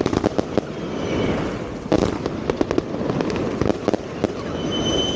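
Fireworks going off: a dense, irregular run of sharp bangs and crackles, with a high steady whistle near the end.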